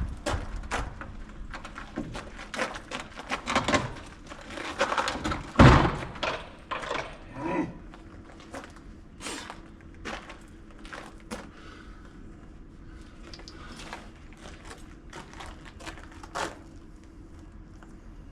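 Knocks, thuds and clatter of hard objects being handled and moved, with one loud thump about six seconds in. Later the knocks thin out to scattered clicks over a faint steady hum.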